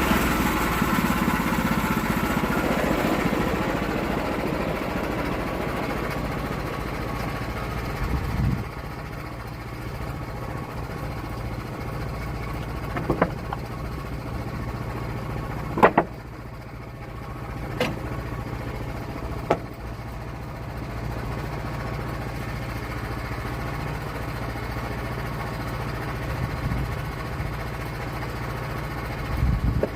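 Small petrol engine running steadily, louder for the first eight seconds or so and then settling lower, with several sharp clacks in the middle.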